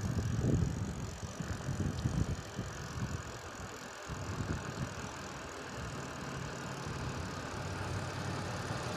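Street noise during a bicycle ride: gusty wind rumble on the microphone that eases after the first second or two, then a steady low vehicle engine hum.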